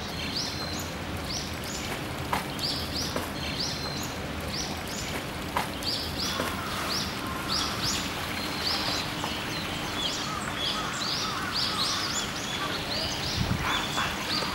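Small birds chirping over a steady outdoor hiss, short high calls repeating several times a second, with a few sharp clicks in between.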